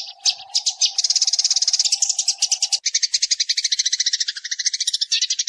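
Recorded sparrow decoy call: a fast, unbroken run of high chirps, about ten a second, with a steady lower tone underneath that stops about three seconds in.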